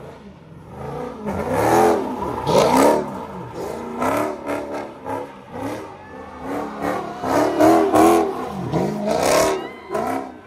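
Car doing donuts, its engine revved hard up and down over and over while the rear tyres spin and smoke. The loudest rev peaks come about three seconds in and again around eight seconds.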